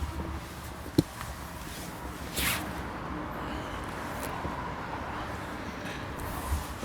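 Handling noise inside a car cabin: a single sharp click about a second in, then a short rustling swish, over a low steady background.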